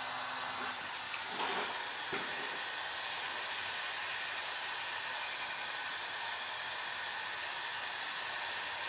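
Heat gun blowing steadily, set to about 140 degrees to soften the adhesive under the phone's glass. A couple of light knocks come from handling about one and a half and two seconds in.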